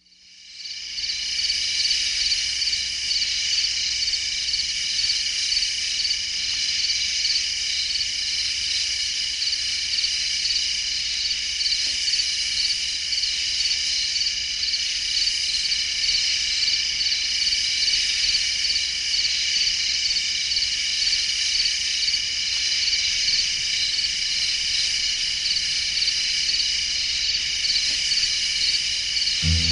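A dense chorus of crickets and other insects: steady high-pitched trilling at several overlapping pitches that fades in over the first second.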